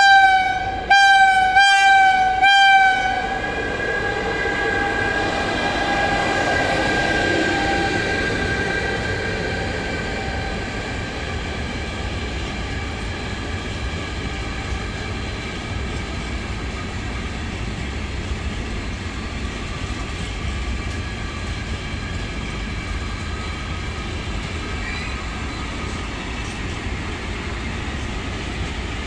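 Train horn giving several short blasts during the first three seconds. After that, a long freight train of tank wagons rolls past at speed with a steady rumble of wheels on the rails.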